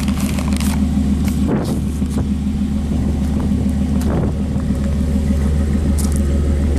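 1997 Chevrolet Silverado pickup's engine idling steadily, running smoothly in the first minute after a cold start.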